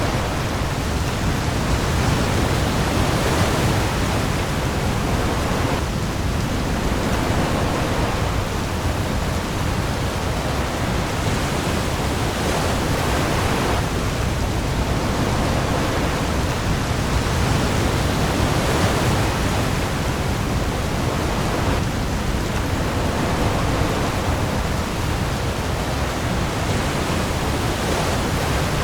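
Heavy rain hissing steadily on the open sea, with waves swelling now and then and a deep low rumble underneath.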